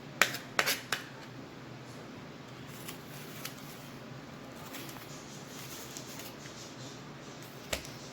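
Knife clicking and scraping against an apple while digging the seeds out of its cored centre: a few sharp clicks in the first second and one more near the end, over a steady low background hum.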